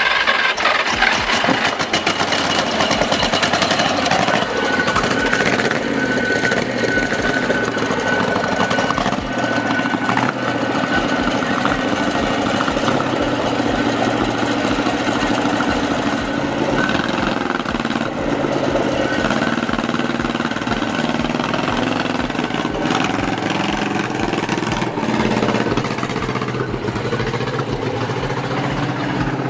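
Old engine running steadily with a rapid, even firing beat, loud and unbroken.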